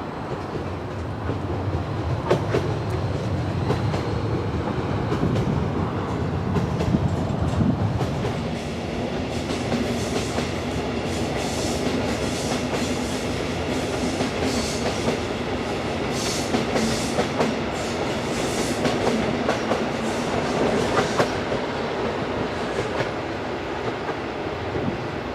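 A train running past on the track, wheels clicking over rail joints. A low rumble dominates at first, and about eight seconds in a steady hum sets in, with a run of rhythmic wheel clicks.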